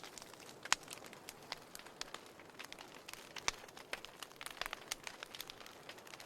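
Wood fire crackling: irregular sharp pops and snaps from burning firewood over a soft steady hiss, with the loudest pops a little under a second in and about halfway through.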